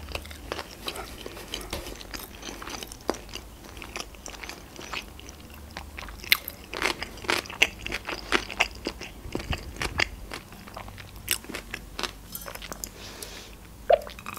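Close-miked chewing of a sushi roll: irregular wet mouth clicks and soft crunches. A brief sip through a plastic straw near the end.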